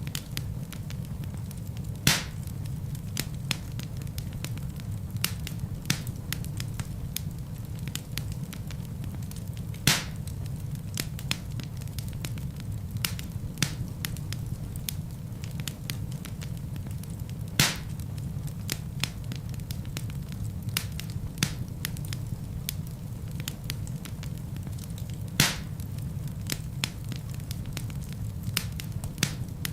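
Wood fire burning in a fireplace: a steady low rumble of flame with frequent small crackles, and four louder pops from the logs about eight seconds apart.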